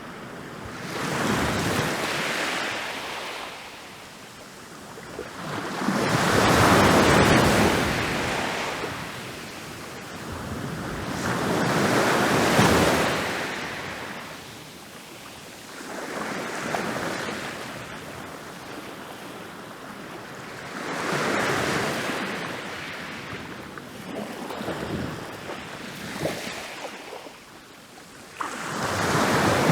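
Ocean waves rolling in and breaking on a beach, one after another about every five seconds, each swelling up and washing back out.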